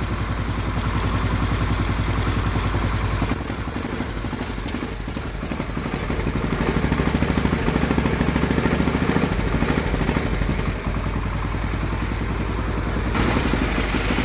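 Single-cylinder 10 hp Kohler engine of an old Case yard tractor running, its speed shifting a few times as the carburetor is adjusted. It runs unevenly and doesn't take throttle well, which the owner puts down to a carburetor that needs a rebuild kit.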